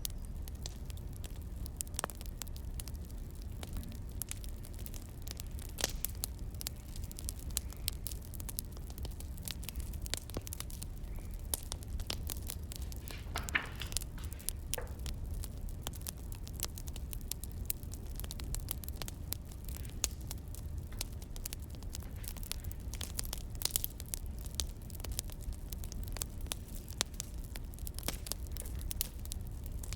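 Wood fire crackling: irregular sharp pops and snaps over a steady low rumble, with a brief flurry of louder crackles about halfway through.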